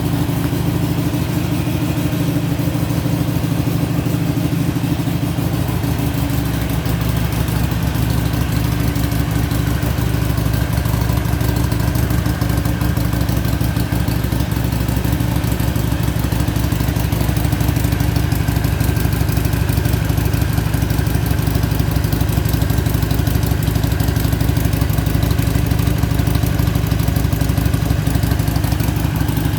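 Harley-Davidson Iron 883 air-cooled V-twin running steadily at idle through its stock exhaust.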